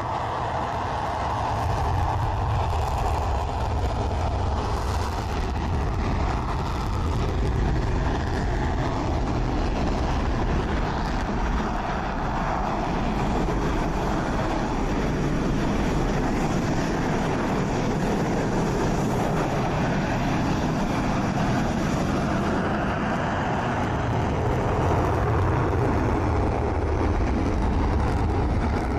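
Steady jet engine noise from Dassault Rafale fighter jets, a loud, even rush with a faint whine that falls slowly in pitch during the first few seconds.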